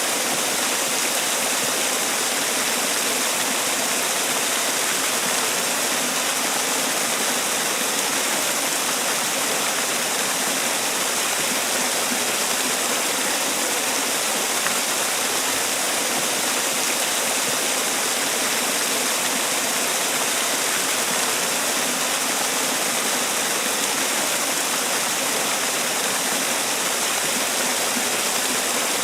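Man-made waterfall: water falling and splashing in a steady, unbroken rush of noise.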